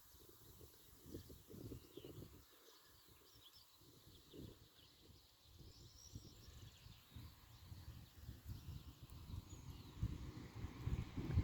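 Faint countryside ambience: light wind rumbling on the microphone, growing stronger near the end, with a few faint distant bird chirps.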